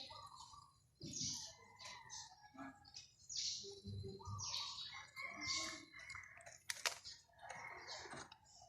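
Birds chirping in short, repeated high calls, with a single sharp click about seven seconds in.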